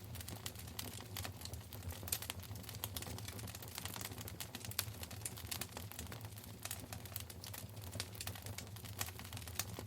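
Wood fire crackling in a fireplace: dense, irregular sharp pops and snaps over a low steady rumble of the flames.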